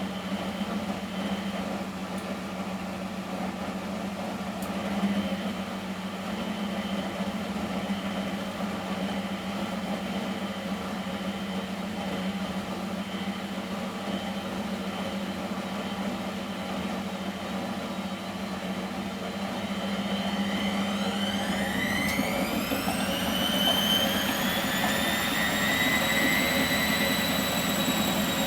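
Miele WS 5426 commercial washing machine running with a steady mechanical hum. About 20 seconds in, the drum motor's whine rises steeply in pitch and levels off high as the drum speeds up to spin.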